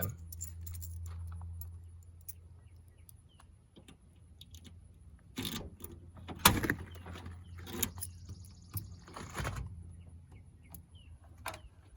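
A car trunk being unlocked and opened: keys jangling and several sharp clunks from the lock and lid, the loudest about six and a half seconds in. A low hum fades out in the first two seconds, and birds chirp faintly.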